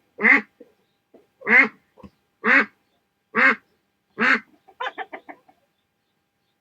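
A duck quacking: five loud quacks about a second apart, then a quick run of short, softer quacks near the end.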